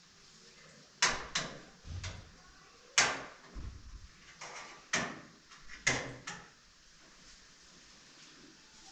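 A series of sharp knocks and clatters, about eight strikes, some with a dull thud beneath, between about one and six and a half seconds in.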